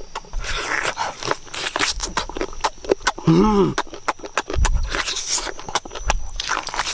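Close-up eating sounds: a run of crunching, clicking and smacking chews, with a short hummed "mm" about halfway through.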